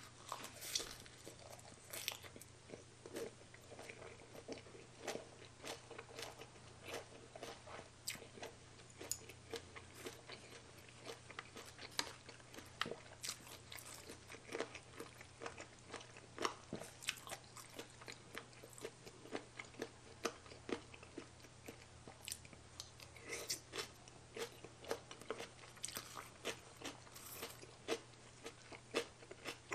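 A person biting and chewing a spicy baby cuttlefish salad eaten with fresh leaves and raw vegetables. Many sharp, crunchy bites and wet chewing clicks come irregularly throughout, over a steady low hum.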